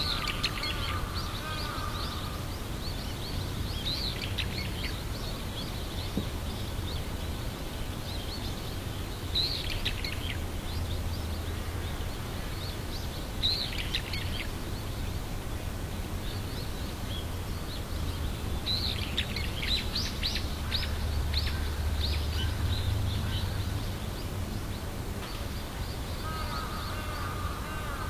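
Outdoor ambience of birds chirping in short scattered bursts, busiest in a cluster a little past the middle, over a steady low rumble. A thin steady tone comes in briefly at the start and again near the end.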